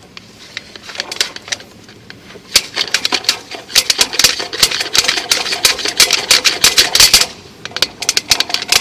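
Sewer inspection camera's push cable rattling and clicking rapidly as it is pushed and pulled to free the camera head, which is stuck in the drain pipe. The clatter is sparse at first, turns dense and fast a couple of seconds in, and thins out near the end.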